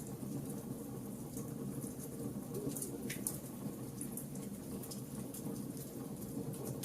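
Wood fire burning: a steady low flame rumble under frequent sharp crackles and pops from the burning wood, with a louder crack about three seconds in.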